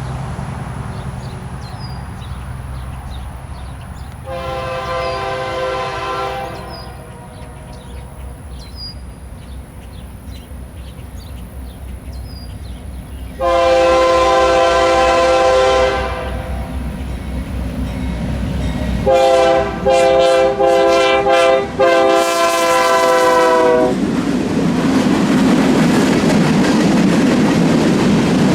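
BNSF diesel freight locomotive's multi-chime air horn sounding for a grade crossing: two long blasts, then a longer horn broken into three pieces, over the low rumble of the approaching locomotives. When the horn stops, the train passes with a loud, steady roar of wheels on rail.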